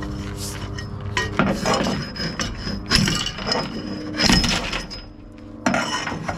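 Steel tie-down chain clinking and rattling as it is handled around a chain binder, in irregular metallic knocks with a ringing edge. A steady engine hum runs underneath.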